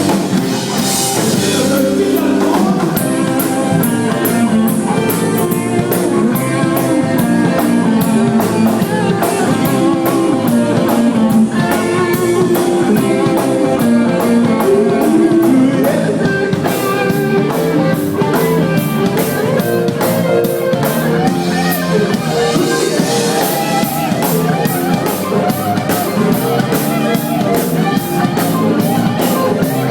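Live rock band playing: drum kit keeping a steady beat with cymbals, guitar, and a singing voice.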